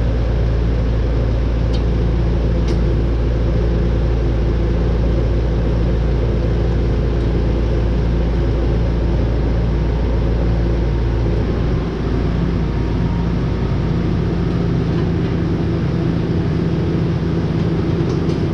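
Tractor diesel engine running steadily, with a deep low hum.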